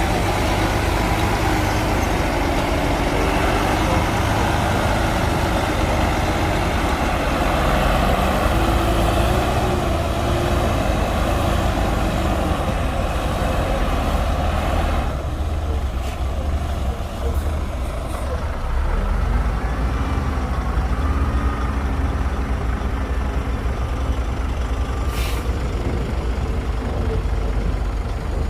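Shantui DH17C2 crawler bulldozer's diesel engine running hard, a steady low drone with a harsh noisy layer on top that drops away suddenly about halfway through, with a few short rises and falls in pitch.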